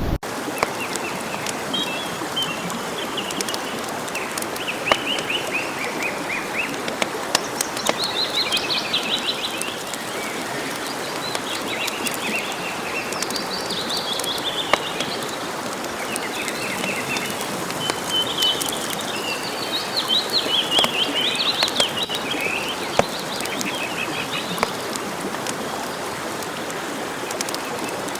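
Songbirds singing repeated short trilled phrases over a steady hiss, with scattered sharp clicks.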